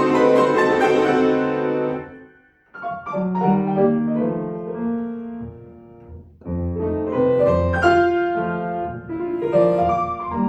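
Solo piano playing classical music. A loud chord rings and dies away, and after a short silence a softer phrase begins about three seconds in. The playing breaks off briefly about six seconds in, then resumes.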